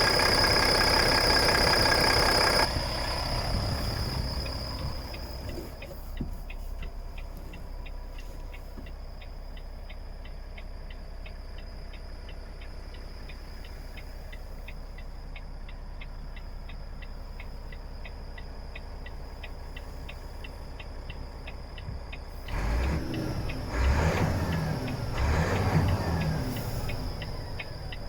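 Volvo FH 460 truck's 13-litre six-cylinder diesel running, cutting off suddenly about two and a half seconds in. A steady, fast ticking follows, and near the end a few louder low knocks and rumbles.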